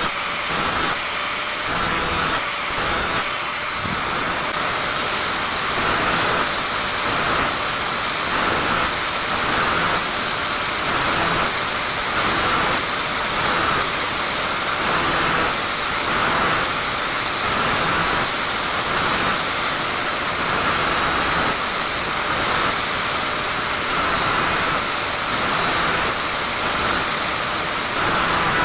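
Angle grinder running continuously, its disc grinding the teeth of a hand saw, the grinding noise swelling and easing roughly every second or so.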